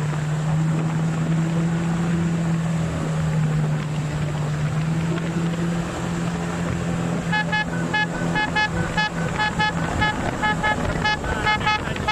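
An engine runs with a steady hum. About seven seconds in, a rapid series of short, high-pitched horn beeps starts and repeats in quick groups over the engine.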